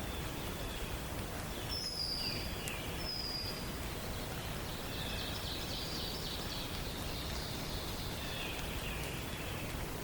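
Several songbirds singing in a forest dawn chorus over a steady background hiss. Two clear high whistles come about two seconds in, followed midway by a fast run of repeated notes and a few lower notes near the end.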